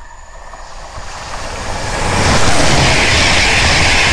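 Virgin Trains East Coast InterCity 225 express passing close at speed, its wheels and coaches making a rushing rumble. The rush builds from about a second in and is loud and steady from about two seconds in as the Mark 4 coaches go by.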